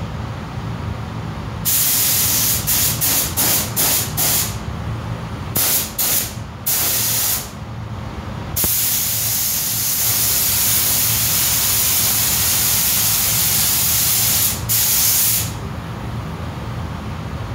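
Compressed-air paint spray gun spraying primer, first in a quick series of short bursts and then in one long continuous spray with a brief break near the end, over a steady low hum.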